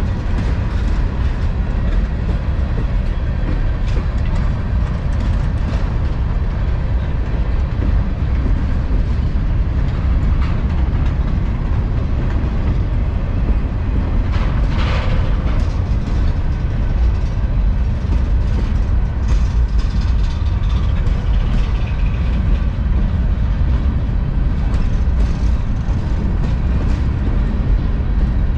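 Freight cars of a long manifest freight train rolling past: a steady low rumble with wheels clicking over rail joints, and a brief higher screech about halfway through.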